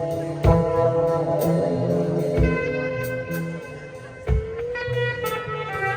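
Live band playing an instrumental passage: a sustained, wavering lead line over stepping bass notes, with kick drum and cymbal strikes on the beat.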